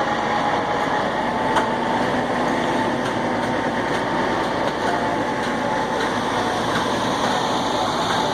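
Heavy-haul truck rig with a long multi-axle trailer running slowly, a steady mechanical rumble and hiss with a thin steady whine throughout.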